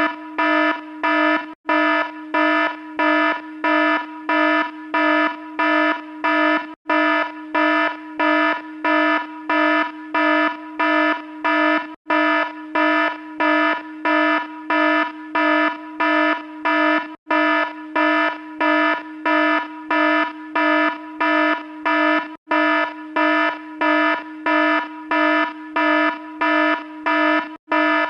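Electronic alarm sound effect: a buzzy tone at one steady pitch, pulsing on and off about twice a second, with a brief break every five seconds or so.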